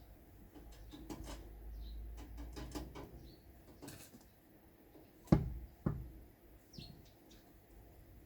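Scattered light clicks and handling noise, then two sharp knocks about half a second apart a little over five seconds in, the first much louder.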